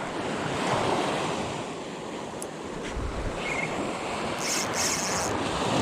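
Beach surf washing steadily, with wind buffeting the microphone. A few short high-pitched chirps come in near the end.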